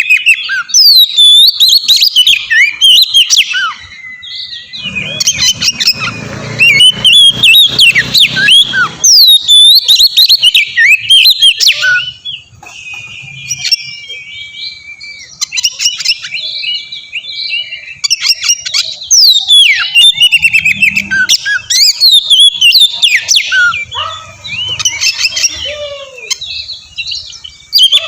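Oriental magpie-robin (kacer) song: a loud, fast run of varied whistles, rising and falling notes and chirps that hardly pauses, with a low rumble underneath for a few seconds about five seconds in.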